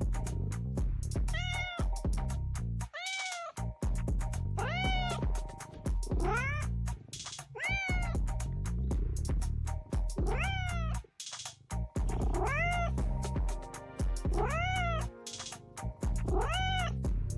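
A cat meowing over and over, about nine meows a second or two apart, each rising then falling in pitch, over background music with a steady beat.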